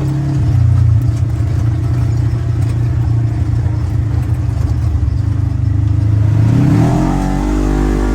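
Polaris General XP 4 1000 side-by-side's twin-cylinder engine running steadily, then revving up with a rising pitch near the end and holding at the higher speed.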